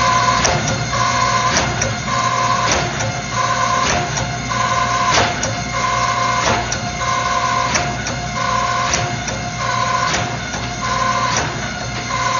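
Shop machinery running steadily: a constant hum, a higher tone that pulses on and off about every 0.8 seconds, and sharp clicks and knocks in between.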